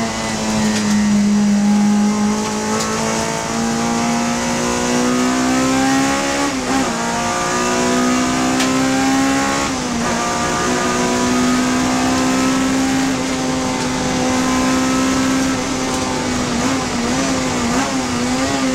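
Honda Civic FD2 race car's four-cylinder engine running hard at high revs, its note climbing slowly, with quick gear changes breaking the pitch about six and ten seconds in.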